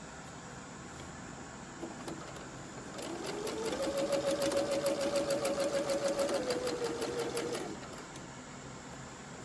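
Singer Quantum Stylist 9960 computerized sewing machine stitching for about four and a half seconds: the motor whine rises as it speeds up, holds steady with rapid, even needle clicks, drops a little and stops.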